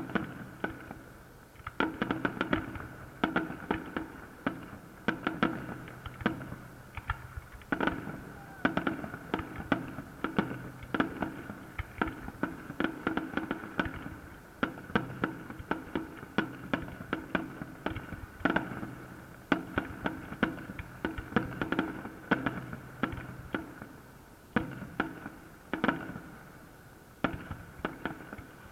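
Fireworks salute: dense volleys of sharp bangs and crackles, several a second, coming in clusters with brief lulls between them.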